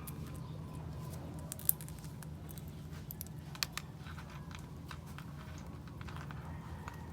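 Sun conure cracking sunflower seed shells with its beak: scattered sharp clicks, a few louder, over a steady low hum.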